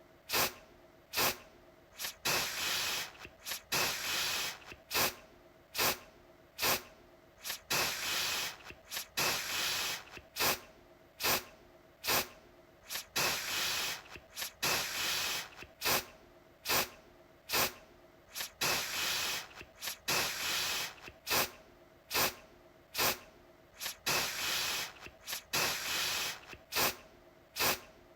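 Aerosol deodorant can spraying in repeated bursts of hiss, short sharp spritzes mixed with longer sprays, one after another.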